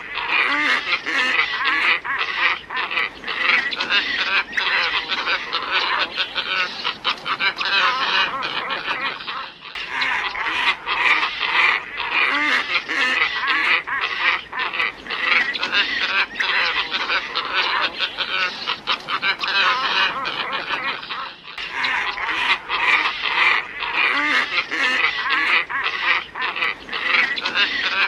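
Glossy ibis flock calling, played as a bird-lure recording: a dense, continuous chorus of many overlapping calls. It cuts off abruptly and restarts twice, about twelve seconds apart.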